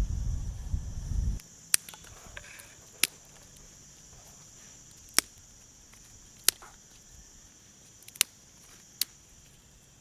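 About six sharp clicks or knocks at irregular intervals over a steady high-pitched hiss, after a low rumble that stops suddenly about a second and a half in.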